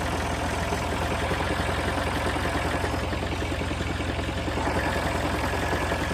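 Old farm tractor's engine running steadily, with no change in speed.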